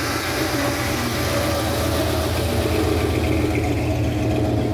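Car engine running close by with a steady low rumble.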